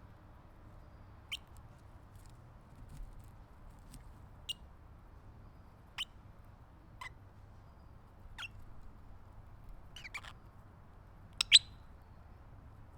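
Golden-shouldered parrot giving short, high, downward-sliding chirps every second or two, the loudest a quick pair near the end, over a faint low hum.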